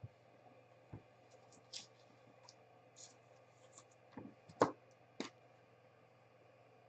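Faint, scattered light clicks and taps of trading cards being handled, about seven in the first five seconds, the loudest a little past halfway.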